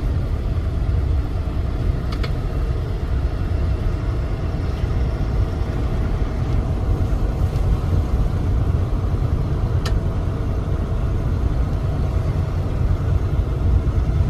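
Semi-truck running, a steady low rumble with no break, with a couple of faint clicks.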